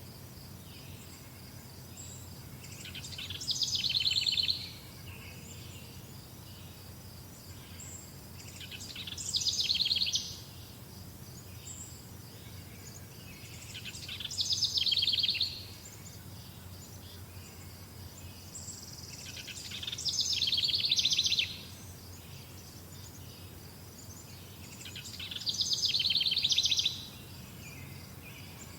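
A songbird singing a fast trilled phrase five times, about every five to six seconds; each phrase swells in loudness and then stops abruptly. A steady faint high insect trill runs underneath.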